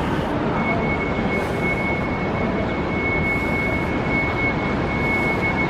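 Steady rumble of a moving vehicle heard from inside. A thin, steady high whine joins it about half a second in.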